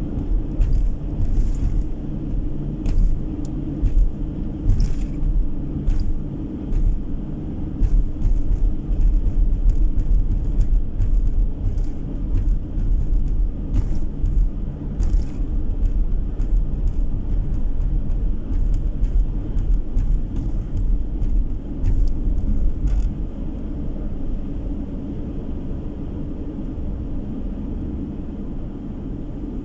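Car driving on the road, heard from inside: a steady low rumble of road and engine noise with scattered light knocks and rattles. It grows quieter and smoother near the end.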